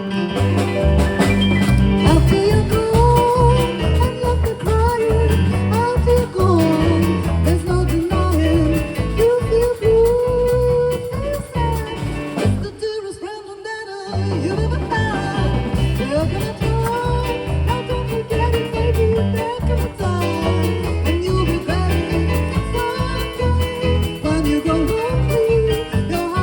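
Live band playing a swing-style jazz tune with a lead singer, picked up on a phone microphone. About thirteen seconds in, the bass and drums stop for about a second and a half, then the band comes back in.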